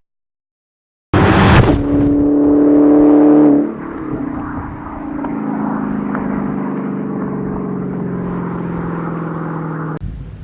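Supercharged 6.2-litre V8 of a 2016 Dodge Challenger SRT Hellcat pulling hard and loud for about two and a half seconds, then easing off abruptly and running on at a lower level with a slowly falling engine note. The sound starts suddenly after a second of silence and cuts off near the end.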